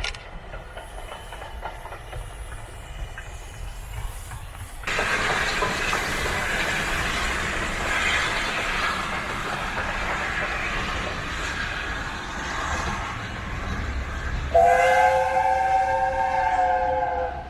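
Steam train running past with its wheels and carriages clattering on the rails. Near the end the locomotive's steam whistle blows a chord of several notes for about three seconds.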